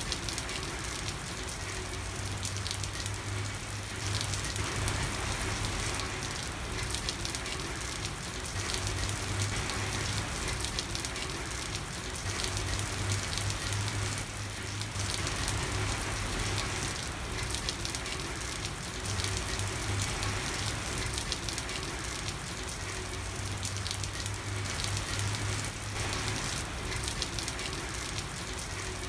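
Steady rain falling on a street, a dense, even patter of drops. A low hum comes and goes underneath.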